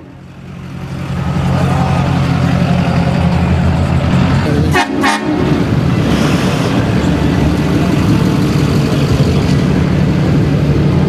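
A vehicle engine running steadily, with a short horn toot about five seconds in.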